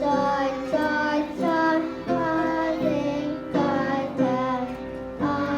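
Children singing a slow line of held notes over musical accompaniment.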